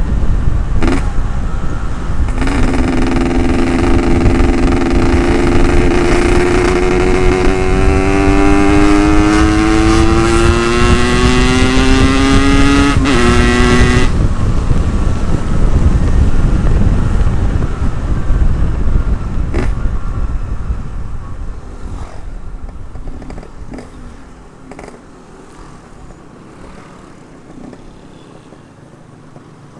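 Ported Yamaha RX-King 135 two-stroke single accelerating hard, its pitch rising steadily through a long pull, with a short break near 13 seconds in. The throttle closes about 14 seconds in, the engine note falls away, and wind rush on the microphone fades as the bike slows.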